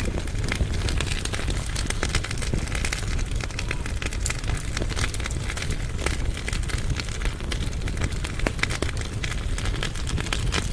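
Firewood burning in a fireplace firebox: frequent sharp crackles and pops over a steady low rush of the flames.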